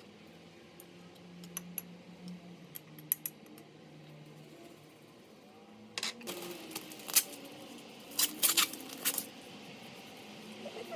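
Kitchen food-prep handling noises: a few light clicks and taps, then from about six seconds in a cluster of louder rustles and knocks, over a faint low hum.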